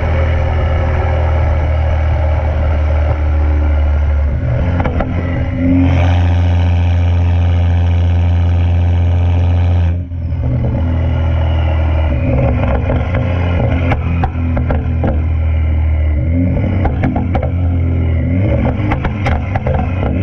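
Straight-piped BMW 335i (N55 turbocharged inline-six with catless downpipe, resonator and muffler deleted) exhaust running at a steady engine speed with a deep drone, dropping briefly about ten seconds in. Through the second half, irregular sharp cracks sound over the drone.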